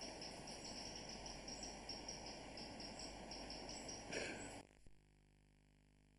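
Crickets chirping in a quick, even rhythm over a low background hiss. The sound cuts off abruptly about four and a half seconds in, leaving near silence.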